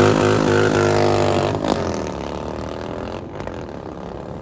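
A car engine revving, its note gliding down and fading away over the next few seconds.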